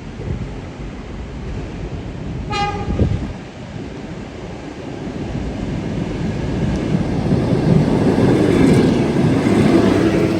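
EP2D electric multiple unit gives one short horn blast about two and a half seconds in, then rumbles louder and louder as it pulls into the platform, with a steady whine joining near the end.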